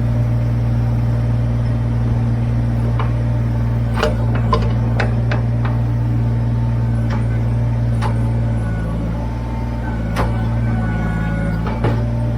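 Kubota BX23S tractor's three-cylinder diesel engine running steadily while its backhoe digs, with scattered sharp knocks and clanks from the bucket and linkage, a cluster of them about four to five seconds in and more later on.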